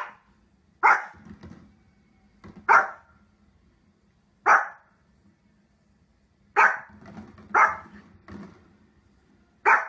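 Pomeranian barking in single sharp barks, about seven of them spaced a second or two apart, one fainter than the rest near the end.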